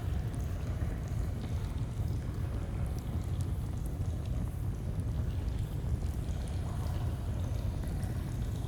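Steady rushing of a flowing stream, with a few faint, sharp crackles of a campfire scattered through it.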